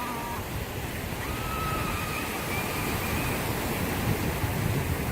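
Sea waves breaking and washing in, a steady surf that grows a little louder near the end.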